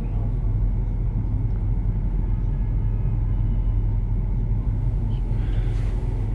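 Steady low hum and rumble with no voice over it, with a faint brief rustle about five and a half seconds in.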